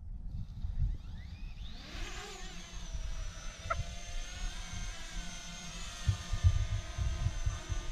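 Parrot Anafi quadcopter's propeller motors spinning up with a rising whine about two seconds in, then holding a steady, many-toned whine. Wind buffets the microphone with a gusty low rumble.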